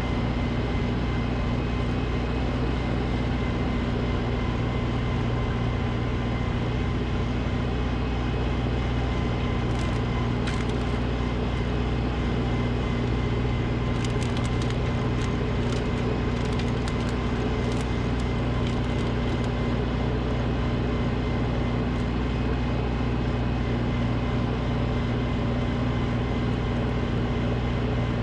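Snowblower engine running steadily at a constant speed, with a few faint clicks around the middle.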